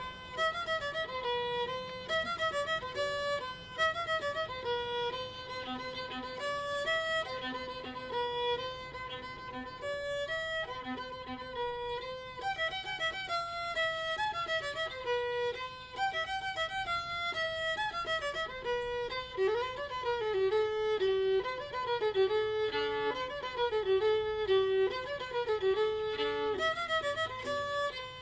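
Fiddle music: a violin playing a tune, note following note without a break.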